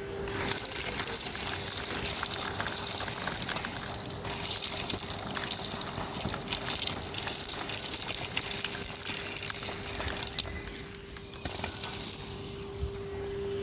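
Henry HVR 200-22 tub vacuum cleaner running with a steady motor hum while it sucks up street grit and small stones, which crackle and rattle rapidly through the hose and wand. The crackle thins out briefly twice, about four seconds in and near the end.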